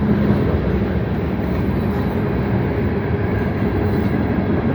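CSX freight train passing close by, a steady loud rumble and rattle of its cars and wheels on the rails.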